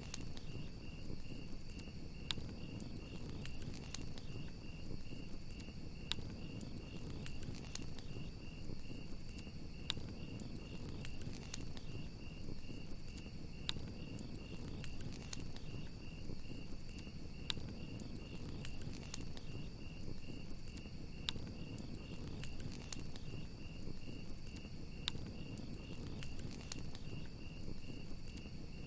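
Campfire crackling, with sharp scattered pops over a low rumble, and crickets chirping in a steady, rapid, even trill.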